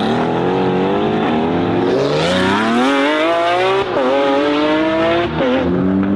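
Sports car engine accelerating hard, its pitch climbing steadily through the revs and dropping briefly at two quick upshifts, about four and five seconds in.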